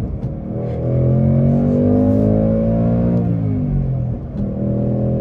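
2024 Ford Mustang GT's 5.0-litre Coyote V8 with active exhaust, heard from inside the cabin, pulling under throttle with its pitch rising gently. About three seconds in it falls off as the throttle eases, then holds steady. A couple of faint pops come from the exhaust.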